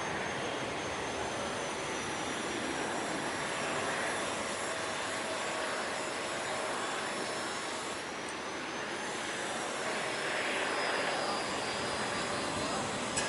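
Jet airliner engines running: a steady rushing noise with a thin high whine that drifts slowly lower in pitch.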